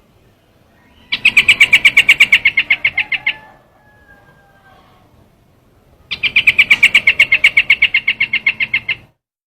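Trao trảo bird calling from a bird-lure recording: two bursts of rapid, evenly repeated high chirps, about ten notes a second, each lasting two to three seconds, the second starting about six seconds in.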